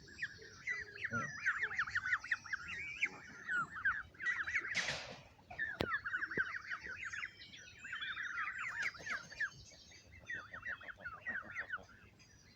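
Canada goose goslings peeping: many quick, high squeaky calls in overlapping runs. A brief rushing noise comes about five seconds in, followed by a single sharp click.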